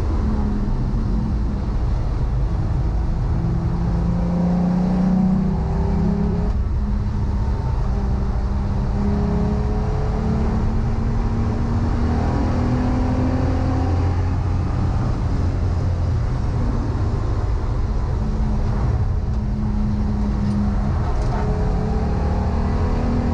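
Volkswagen Corrado VR6 race car's engine driven hard on track, its revs climbing and dropping repeatedly through gear changes over a heavy low rumble.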